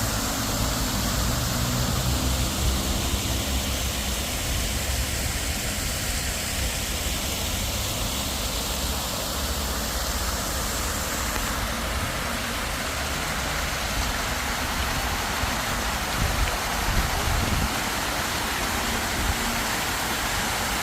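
Water fountain splashing: a steady rush of falling water over a low rumble.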